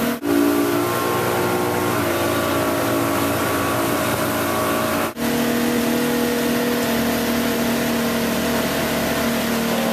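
Motorboat engine running steadily, a constant hum with wind and water noise over it; the sound cuts out for an instant twice, about a quarter second in and about five seconds in.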